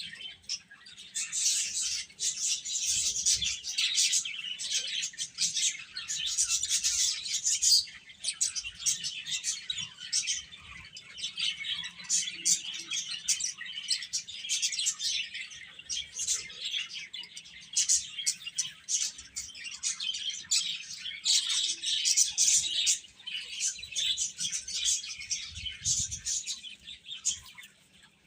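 A group of chicks peeping continuously, many short, high calls overlapping, with brief lulls now and then.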